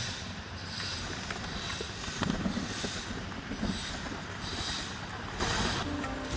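Wind buffeting the microphone: a steady rushing noise with a low rumble, and a louder gust about five and a half seconds in.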